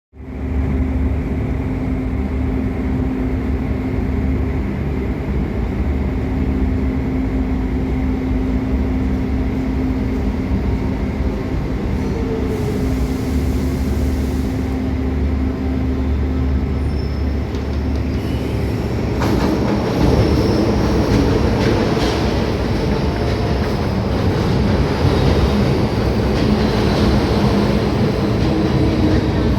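MTR Tsuen Wan Line M-Train electric multiple unit: a steady hum with low tones, then, about two-thirds of the way in, a louder rumble of wheels on the rails with faint high squeals.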